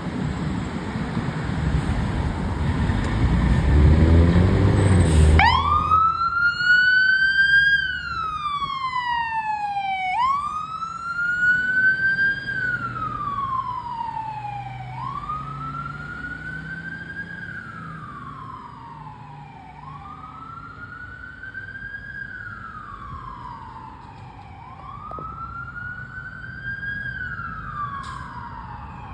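A fire apparatus goes by with loud rumbling engine and road noise for about five seconds. Then its siren starts a slow wail, each cycle rising and falling over about four to five seconds, and fades steadily as the vehicle moves away.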